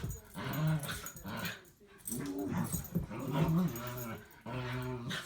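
Dog whining and whimpering in a run of about six drawn-out cries, each rising and falling in pitch, with a short sharp burst of noise at the very end.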